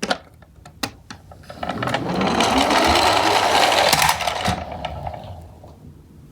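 Toy minicar garbage trucks running down a slope. A few sharp plastic clicks come first, then a dense whirring rattle of small plastic wheels builds over about a second, holds for two seconds and fades away.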